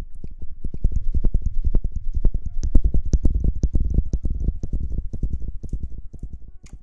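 Quick scratching and rubbing right against a microphone in dense short strokes, several a second and heavy in the low end, as in ASMR hair-washing sounds. It thins out and fades near the end.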